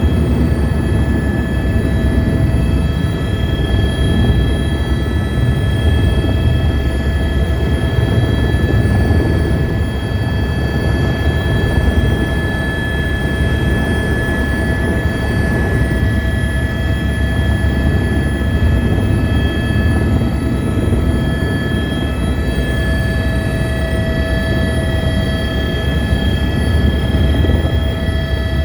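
Helicopter running steadily, its rotor and turbine making a dense low noise with a constant high whine on top.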